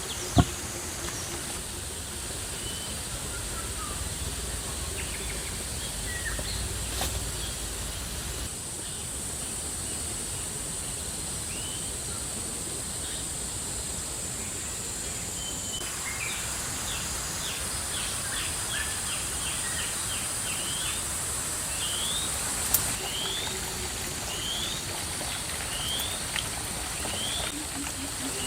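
Rural outdoor ambience: a steady high-pitched insect drone with birds chirping, ending in a run of quick, evenly spaced rising chirps. Two sharp knocks, one just after the start and one about 23 seconds in.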